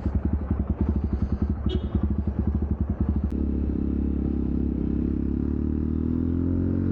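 Jawa Perak's single-cylinder exhaust thumping at low revs with separate firing beats. A little past halfway the beats merge into a smooth note that rises steadily as the revs climb.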